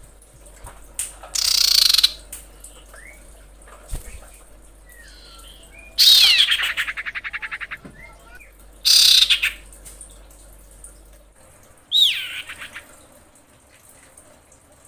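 Female common iora (sirpu/cipoh) calling: four loud, high calls, a few seconds apart. The longest, about six seconds in, is a downward sweep running into a fast rattling trill that fades over about two seconds, and the last is a falling whistle with a short stutter.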